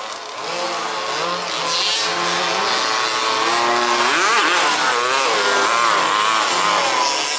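Several 1/5-scale RC buggies' small two-stroke petrol engines running on the track, overlapping and rising and falling in pitch as they rev up and ease off through the course.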